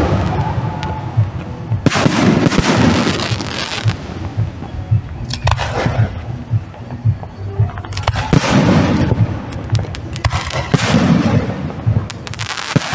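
Fireworks display: a string of loud aerial shell bursts, one every two to three seconds, each fading out over about a second, with sharp cracks between them and a steady low rumble underneath.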